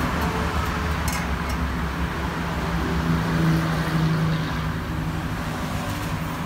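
Honda Accord's K24A four-cylinder engine idling steadily under the car, with its exhaust open during a muffler swap. A few light metallic clicks about a second in as the muffler is handled onto the pipe.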